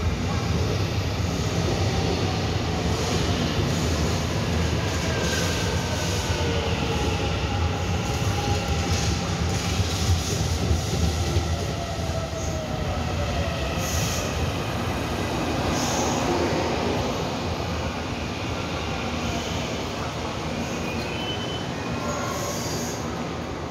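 Electric multiple-unit commuter train pulling in along the platform and slowing: a steady rumble of wheels on rail with wheel and brake squeal, and falling whining tones as it loses speed. A few short clicks come near the end.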